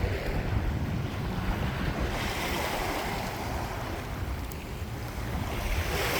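Small waves washing in shallow water, the wash swelling and easing, with wind rumbling on the microphone.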